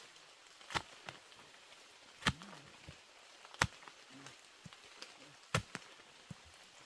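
A series of sharp knocks, about six, irregularly spaced one to two seconds apart, the last two close together.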